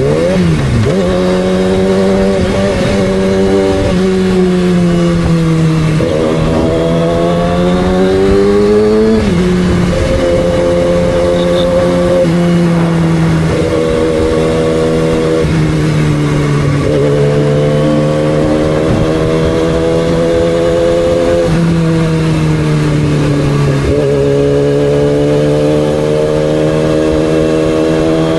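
2006 Yamaha R6's inline-four engine running hard under way, its pitch climbing slowly and dropping sharply a few times as gears change.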